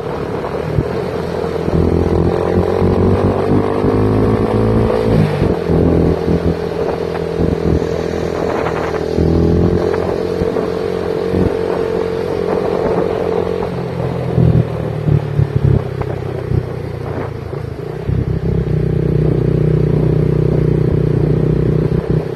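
Motorcycle engine running under way, its pitch rising and falling with the throttle, over a heavy low rumble.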